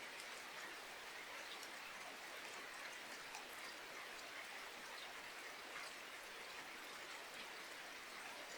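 Steady, faint rain falling, an even hiss with scattered small drop ticks.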